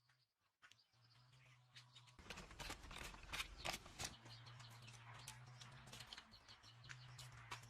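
Faint, fast run of small clicks and scrapes, busiest from about two seconds in, over a low steady hum.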